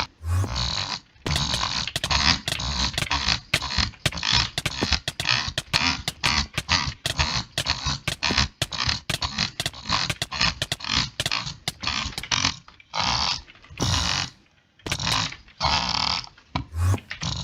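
A person making mouth sounds: rapid runs of clicks and rattling, breathy bursts, many in quick succession, then a few longer separate bursts near the end.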